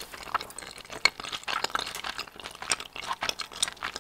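Close-miked chewing of a soft bread ball filled with cream cheese: many irregular small clicks and wet mouth smacks.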